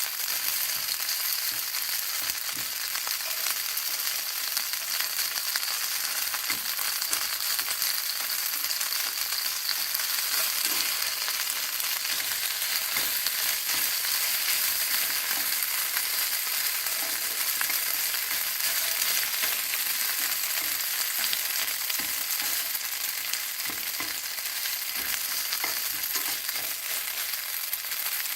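Liver and garlic-chive stir-fry sizzling steadily in a hot frying pan as it is reheated, with faint scattered clicks and scrapes.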